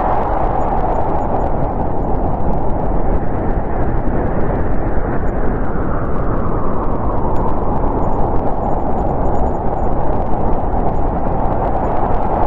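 Snowstorm wind, a steady rushing that swells a little in the middle.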